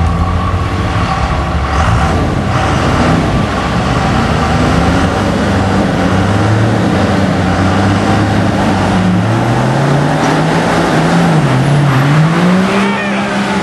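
Dodge diesel pickup's Cummins straight-six engine running hard, its pitch steady at first, then rising, dipping and rising again in the last few seconds.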